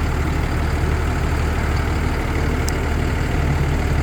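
Peterbilt box truck's diesel engine idling steadily with a low, even hum.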